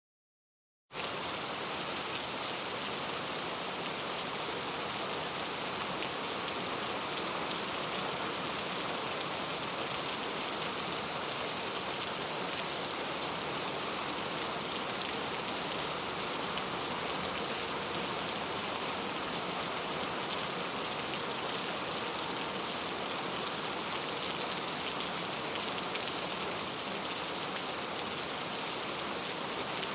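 Heavy rain falling steadily, a constant even hiss that starts abruptly about a second in.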